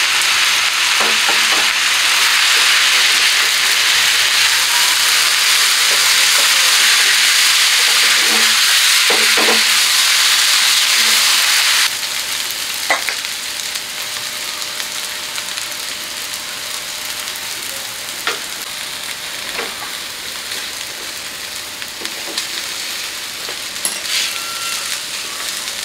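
Shrimp chow mein stir-frying in a frying pan: a steady loud sizzle, with the clicks and scrapes of a spatula against the pan as the noodles are tossed. About twelve seconds in, the sizzle drops suddenly to a quieter level.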